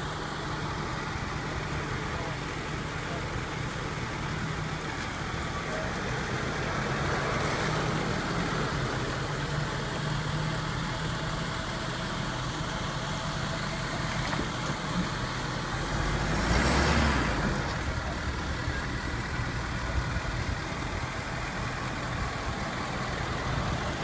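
Heavy truck's engine running steadily at idle or crawling speed, with one louder surge lasting about a second, two-thirds of the way through.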